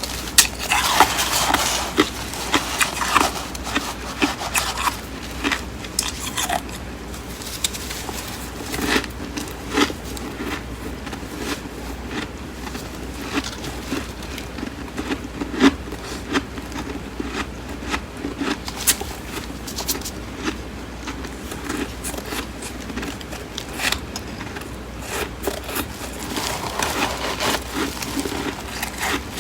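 Close-miked biting and chewing of flaky, crisp freezer frost: dense crunching in the first few seconds and again near the end, with a run of small crackles and clicks from chewing in between.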